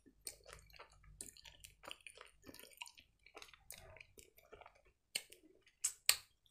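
Close-miked wet chewing of gummy marmalade candy: soft, quick, moist mouth clicks and squishes. A few sharper mouth clicks stand out near the end.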